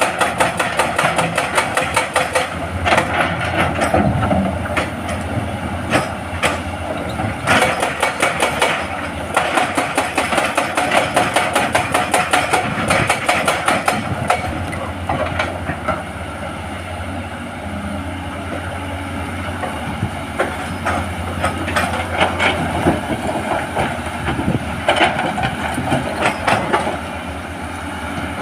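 Hydraulic breaker hammer on a Hitachi excavator pounding rock in a rapid, steady rattle of blows over the excavator's diesel engine. The hammering eases off for a few seconds about halfway through, then starts again.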